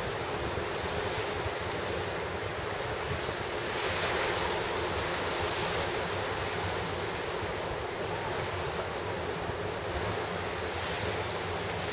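Ocean surf breaking and washing on the shore, a continuous rush with a swell about four seconds in, and wind buffeting the microphone.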